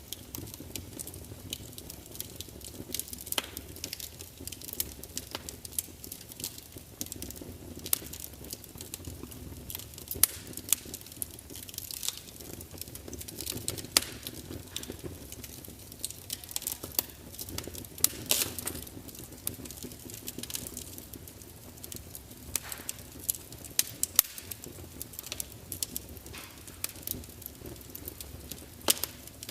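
Wood fire burning in a large fireplace: irregular crackles and pops from the logs over a steady low rush of flame, with a few louder snaps along the way.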